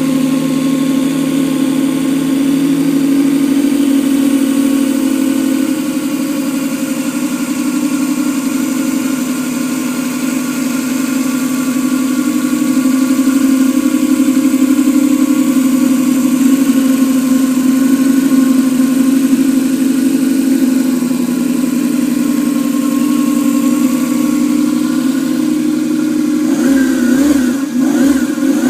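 Model V8 engine with electronic fuel injection running at a steady, fairly high-pitched speed; near the end its pitch wavers up and down briefly as the throttle is worked.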